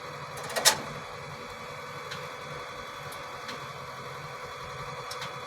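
Small 140cc engine idling steadily with a light mechanical ticking. A sharp click comes just under a second in.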